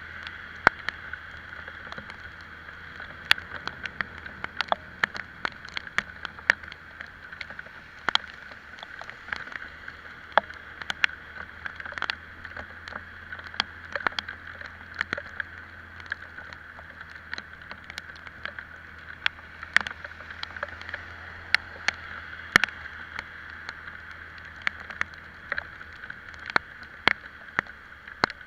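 Riding an Italika Vitalia 125 scooter in the rain: a steady rush of air and road noise over a low engine drone, broken by frequent sharp, irregular ticks of raindrops striking the microphone.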